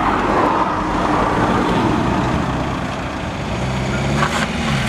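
A car engine runs as a black BMW 3 Series saloon pulls slowly away, with a noisy background throughout. Near the end the pitch rises briefly as the engine revs.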